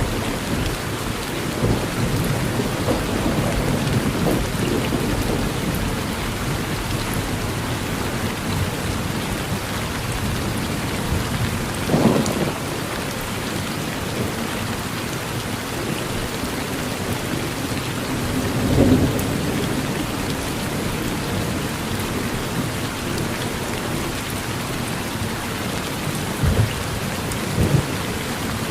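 Steady rain falling on a porch during a thunderstorm, with thunder rumbling low in the first several seconds. There are brief louder swells about 12 and 19 seconds in and twice near the end.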